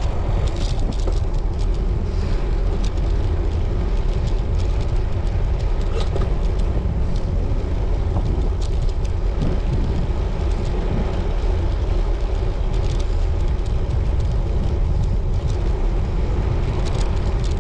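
Wind rushing over the microphone of a moving road bike, a steady low rumble with tyre and road noise and a few faint clicks.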